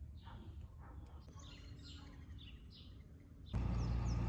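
Small birds chirping in quick short notes. About three and a half seconds in, a much louder steady low hum sets in under the chirps.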